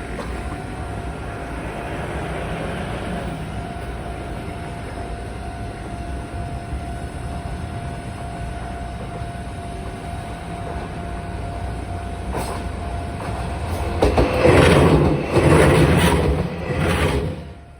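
Meitetsu electric train running along the rails, with a steady whine over the running noise. About fourteen seconds in it grows much louder, with a run of wheel clacks over rail joints, then drops away suddenly just before the end.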